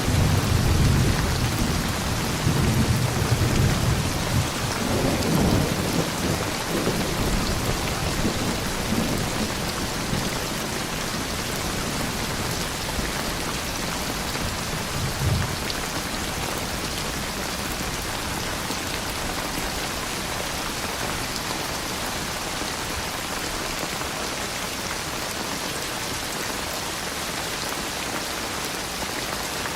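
Steady rain falling, with thunder rumbling low over roughly the first ten seconds and a short low rumble about fifteen seconds in; after that, rain alone.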